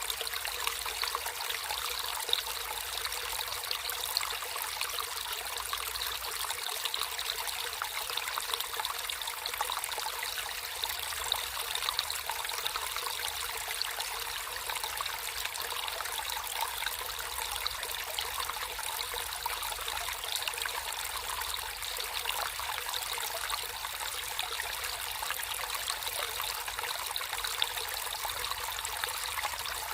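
Natural flowing water trickling steadily like a small stream, a dense, even patter of small splashes with no deep rumble.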